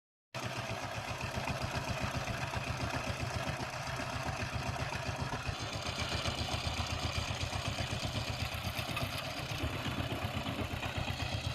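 Single-cylinder diesel engine of a power tiller running steadily, with a fast, even pulse of firing strokes.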